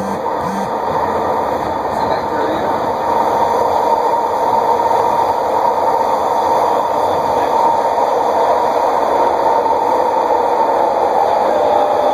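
Vancouver SkyTrain car running at speed, heard from inside the car: a steady rumble and hiss with a steady tone running through it, getting a little louder a few seconds in.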